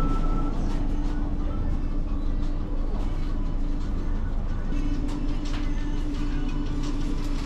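A vehicle running: a steady rumble with a low, steady hum and scattered light rattles and clicks.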